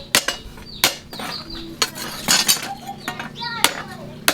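Hand hammer striking steel on an anvil, about five ringing metallic blows at an uneven pace.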